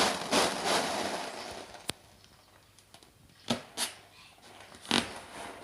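Baby making short breathy vocal sounds, excited huffs and gasps, coming in bursts: a longer run in the first second and a half, then three more short ones later, with a single sharp click about two seconds in.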